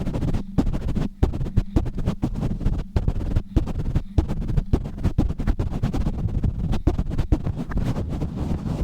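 Fast, rough scratching and rubbing right on a microphone: a rapid, irregular stream of strokes with a heavy low rumble of handling noise.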